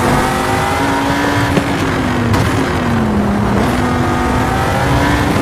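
Electric power saw running while cutting a marked-out hole in timber. Its motor note wavers and drops in pitch for a moment about three seconds in as the blade takes load.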